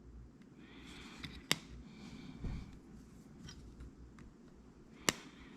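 Wire cutters snipping off the excess leads of a freshly soldered LED on a light bulb's circuit board: two sharp snips about three and a half seconds apart, with faint handling between.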